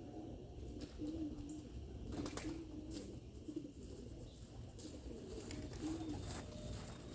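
Domestic pigeons cooing, one low wavering coo after another, with a few light clicks among them.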